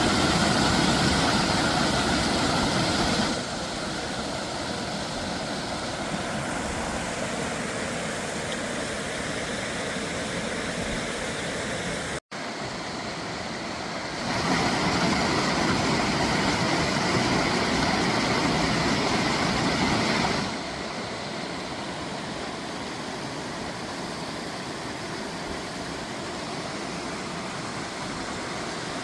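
Steady rush of mountain stream water. It is louder at the start and again for several seconds in the middle, and breaks off for an instant about twelve seconds in.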